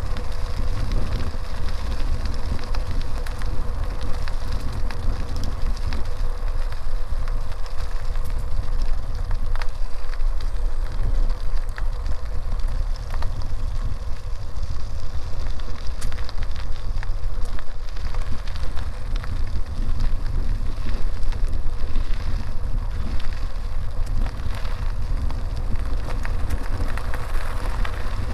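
Wind buffeting the microphone of a bicycle in motion, a steady low rumble, with the rolling noise of the tyres on the road surface and scattered small clicks and rattles.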